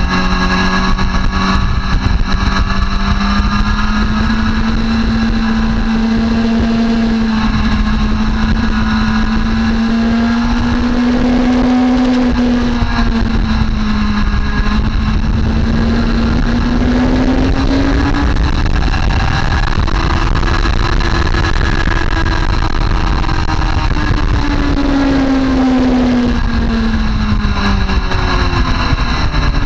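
Motorcycle engine running hard at speed, its note rising and falling slowly with the throttle and gears, over a steady rushing noise.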